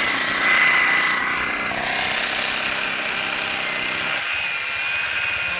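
Power drill boring into hard, solid stone under load, a steady grinding rattle with a faint high whine.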